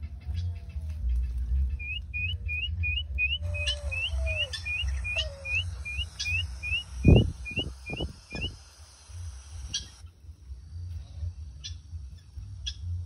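A bird repeating a short rising chirp about three times a second for several seconds, with a few lower calls between. Wind rumbles low on the microphone, and a handful of low thumps come near the end of the chirping, the first of them the loudest sound here.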